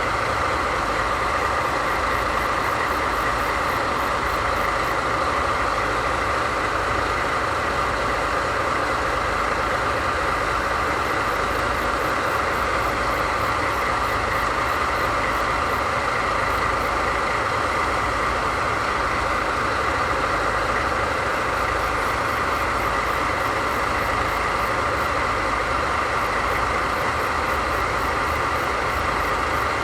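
DD51 diesel-hydraulic locomotive's twin V12 diesel engines idling steadily.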